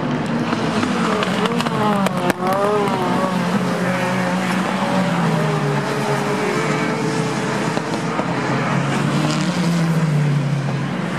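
Touring race cars' engines running at racing speed, several at once, their pitch rising and falling as they accelerate, shift and pass. There is one sharp click about two seconds in.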